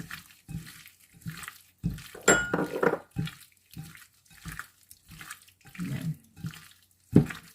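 Cubed raw chicken breast being mixed with a soy sauce, sesame oil, garlic and black pepper marinade in a bowl: wet squelching strokes, about two a second, with a brief clink about two seconds in.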